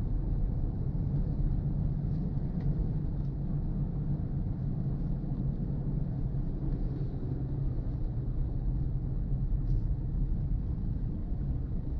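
Steady low rumble of a car driving, with a few faint ticks.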